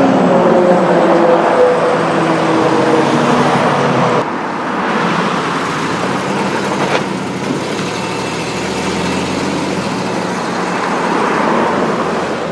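Car driving close by: engine hum with tyre and road noise, the engine's pitch sinking slightly before it cuts off abruptly about four seconds in, then a steadier rush of road noise.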